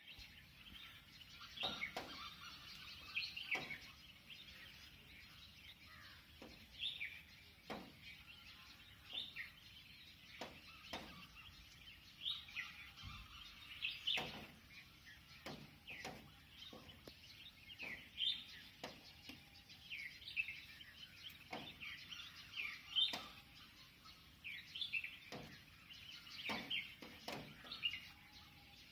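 Birds chirping in a repeated pattern of short, high calls, about one or two a second, some falling in pitch.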